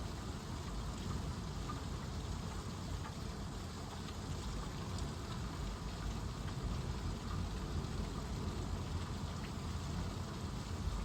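Steady rain falling during a thunderstorm: an even, constant hiss with a few faint drop ticks.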